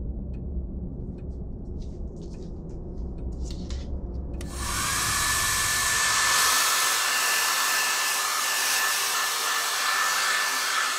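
Hair dryer switched on about four seconds in and running steadily, a loud hiss with a thin high whine. Before it, a low hum and a few light rustles and knocks.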